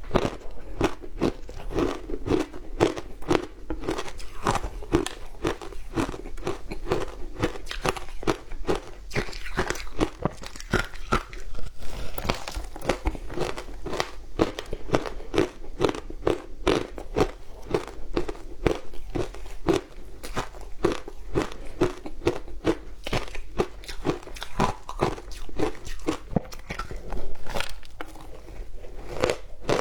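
Frozen matcha ice being bitten and chewed close to the microphone: a steady run of crisp crunches and cracks, many each second.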